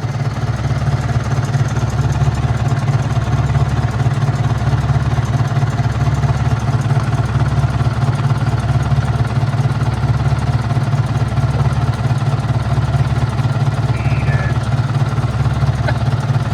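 Engine of an International 125 crawler loader running steadily, starting abruptly, with a regular low pulse about once a second.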